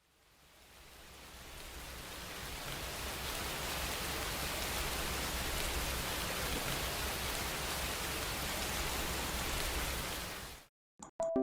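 Rain sound effect: a steady hiss of rainfall that fades in over the first few seconds, then cuts off abruptly near the end, followed by two short clicks.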